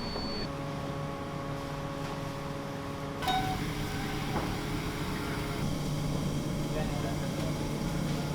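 A steady mechanical hum with several held tones, with one short knock about three seconds in.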